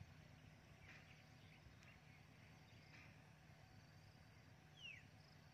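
Near silence: faint outdoor ambience with scattered small bird chirps and one short falling whistle a little before the end.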